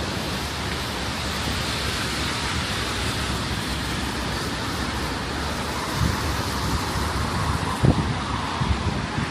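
Steady hiss of city traffic on wet roads, with a few short low bumps in the last few seconds.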